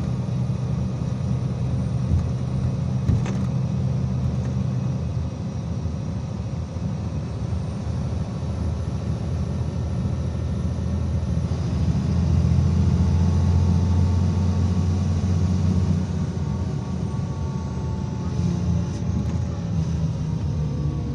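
IVECO Crossway 13M PRO city bus heard from inside the cabin while under way: a steady diesel engine hum and road rumble. It swells louder for a few seconds in the middle as the engine pulls harder, with a faint whine that slowly rises and falls in pitch.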